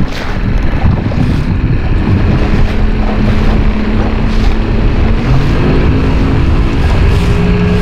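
Wind buffeting the microphone on an open boat, with a boat motor's steady hum underneath that rises in pitch about two-thirds of the way through.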